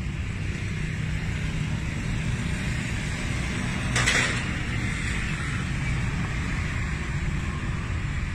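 Motorcycle engine running steadily while riding, with wind noise on the microphone; a short, louder rush of noise comes about four seconds in.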